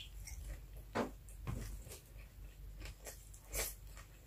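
Close-up mouth sounds of a person chewing fried milkfish: quiet, scattered wet smacks and clicks, the loudest about three and a half seconds in.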